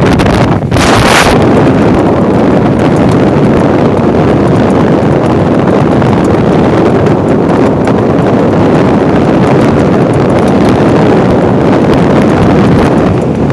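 A boat's new engine running steadily while under way, with heavy wind buffeting the microphone. There is a brief hiss about a second in.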